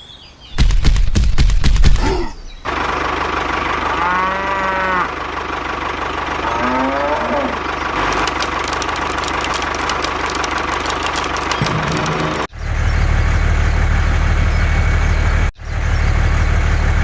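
A vehicle engine running steadily, with a low rumble in the first two seconds and a louder hum from about twelve seconds in. Two drawn-out, wavering calls sound over it, one about four seconds in and one about seven seconds in.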